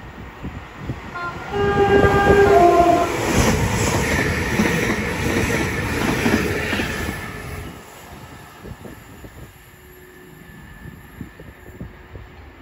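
Greater Anglia Class 720 Aventra electric train sounding a short two-note horn as it nears the platform, then rushing and rumbling past close by. The noise dies away after about seven and a half seconds.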